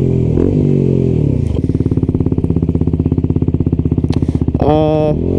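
A 125 cc single-cylinder motorcycle engine running. It drops in pitch as the bike slows, then idles with an even, rapid pulsing of about a dozen beats a second. Near the end a short, higher-pitched sound cuts in over it.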